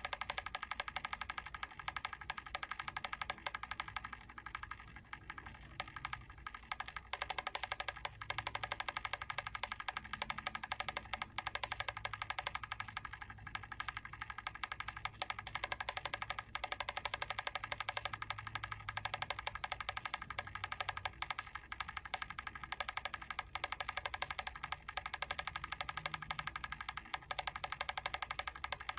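Mechanical timer switch's clockwork mechanism ticking in a rapid, even rhythm of sharp clicks.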